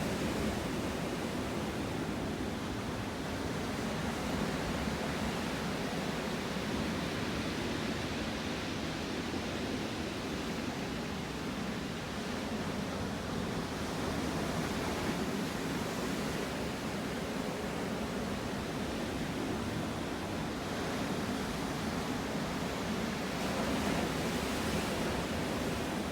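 Black Sea surf washing onto the shore, a steady rush with slow, gentle swells as waves come in.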